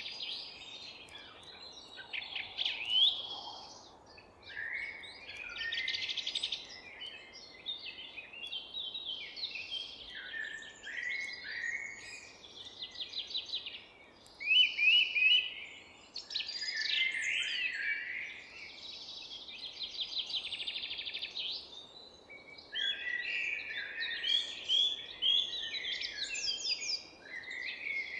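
Several songbirds singing and chirping at once in a dawn chorus: overlapping trills, rapid repeated notes and short whistled phrases, continuous throughout, over a faint steady background hiss.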